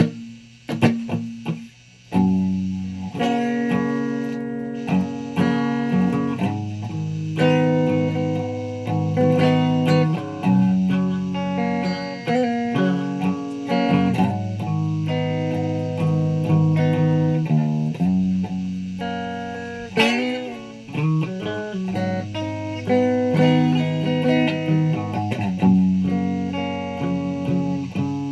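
Guitar being played, picked notes and chords ringing one after another. A few sharp clicks in the first two seconds come before the playing settles in.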